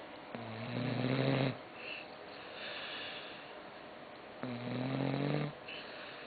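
A sleeping dog snoring: two low, droning snores, each about a second long and about four seconds apart, with softer breathing between them.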